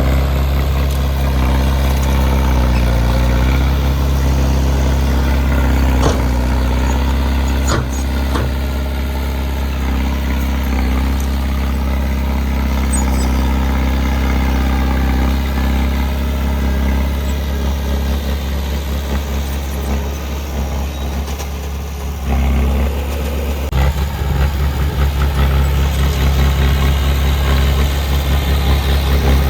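Heavy earthmoving machine's diesel engine running steadily, with a few sharp metallic knocks and the engine note shifting about three quarters of the way through.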